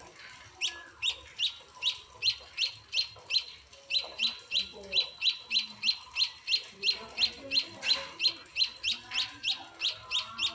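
Munia (emprit) chick begging while being hand-fed: a steady run of short, sharp, high cheeps, about three a second.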